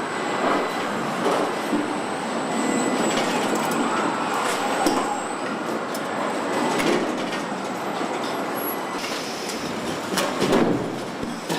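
Car assembly-line machinery running: a steady mechanical din with scattered clanks and clicks and a faint high whine.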